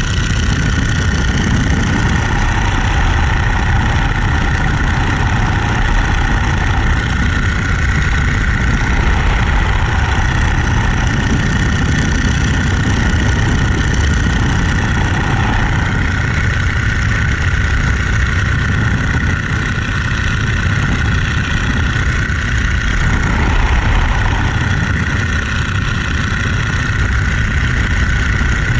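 Radial engine of a Boeing-Stearman Model 75 biplane running steadily, a loud, unbroken drone that barely changes in pitch or loudness.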